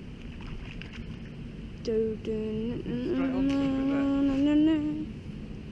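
A person humming with a higher-pitched voice: two short notes about two seconds in, then one long held note that rises slightly near its end.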